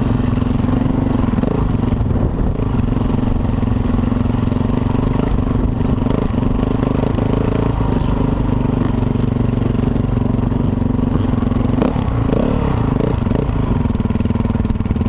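Motocross dirt bike engine running at a steady speed, with no revving, and one sharp click about twelve seconds in.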